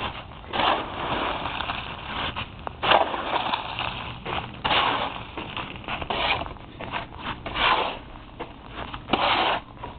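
Shovel scraping and breaking up a hard, slushy crust of sleet and ice, in repeated irregular strokes about once a second.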